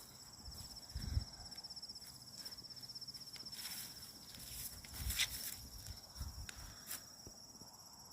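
Footsteps crunching and rustling through leaf litter on a woodland walk, with irregular thuds of each step. Under them runs a steady high, pulsing trill of insects.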